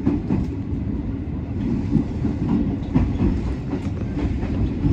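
JR West 207 series electric train running, a steady low rumble with sharp wheel clicks over rail joints about once a second.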